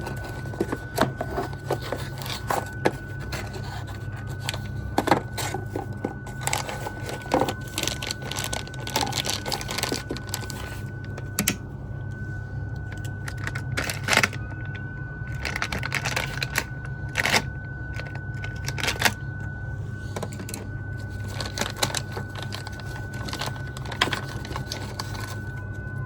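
A cardboard parcel being opened and the packaging and part inside handled, giving irregular clicks, knocks and rustles. Underneath runs a steady low hum and a faint steady high tone.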